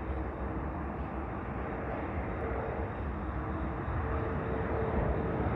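Steady low rumble of stopped CSX diesel freight locomotives idling, with a faint steady hum over it and no clanks or impacts.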